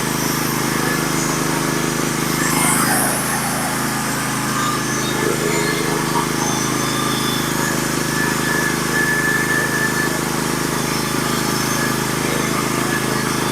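Norwood HD36v2 portable bandsaw mill's gas engine running steadily at full throttle while the band blade cuts through a scarlet oak log, making a lengthwise board cut.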